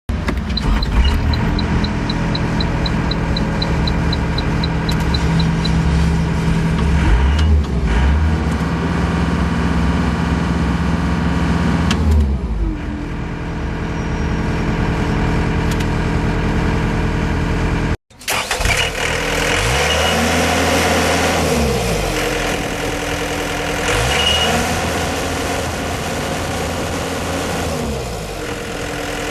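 Mustang 2700V skid steer loader's engine running, with a rapid beeping alarm, about three beeps a second, over the first several seconds. The engine drops to a lower speed about halfway through. After a short break, its pitch rises and falls twice as it is revved.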